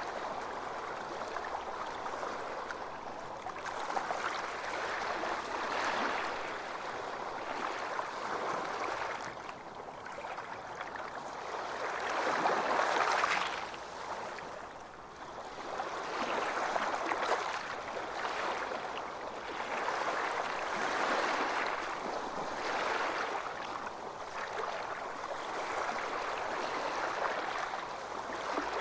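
Ocean waves breaking and washing on a beach, a steady rush of surf that swells and ebbs every few seconds, with the biggest swell about halfway through.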